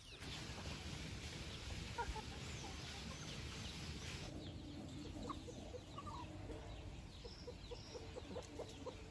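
Country chickens clucking faintly and intermittently, with short scattered calls over a low background hiss.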